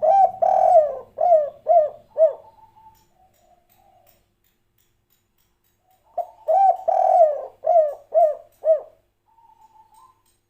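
Spotted dove (tekukur) cooing twice, the phrases about six seconds apart. Each phrase is a short coo and a longer drawn coo, then three short clipped 'kuk' notes: the 'kuk 3' song type.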